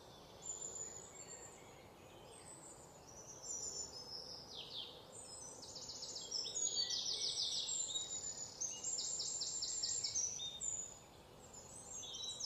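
Several birds chirping and singing together over a faint steady hiss, with quick falling notes and fast rattling trills. It grows busier and louder about halfway through and eases off near the end.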